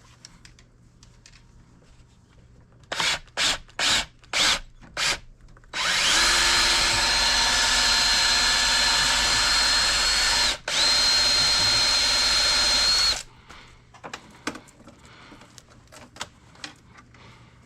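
Electric motor of a power-driven wire stripper: five quick blips, then it runs steadily with a high whine for about seven seconds, stopping for a moment partway through, as a long piece of scrap wire is fed through.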